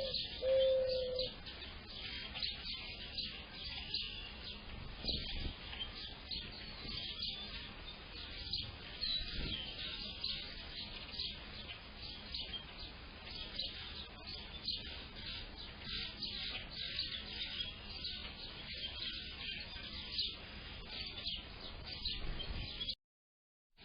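A busy chorus of small songbirds chirping and twittering without a break. A mourning dove gives a low coo in the first second. The sound cuts out abruptly for about a second near the end.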